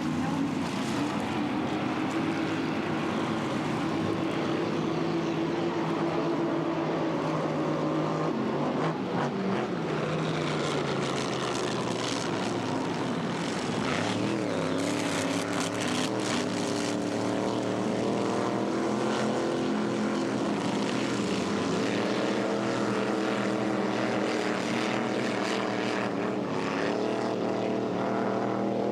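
Racing inboard speedboat engines running hard, a continuous engine note whose pitch drops and climbs again a few times around the middle.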